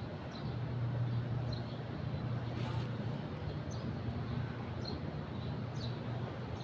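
Small birds giving short, high chirps about once a second over a steady low hum. There is a brief scratchy noise near the middle.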